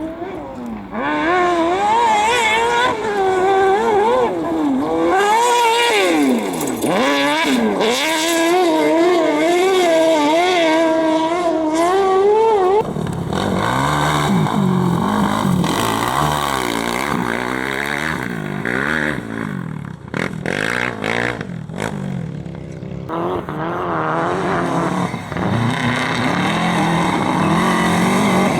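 Competition engines run hard at full throttle, the pitch climbing and dropping again and again with each throttle application, lift and gear change. About thirteen seconds in the sound cuts to a different, lower-pitched engine, its pitch swooping up and down as it works through the course.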